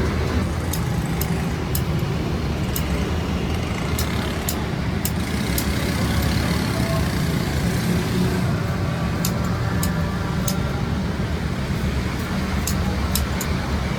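Steady low mechanical hum, with sharp clicks and ticks scattered through it.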